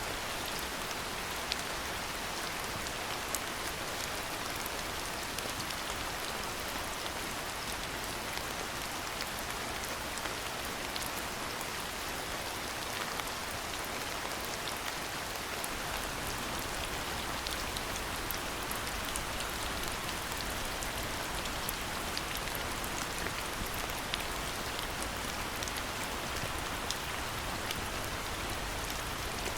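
Steady rainfall, an even hiss with many small, sharp drop ticks scattered through it.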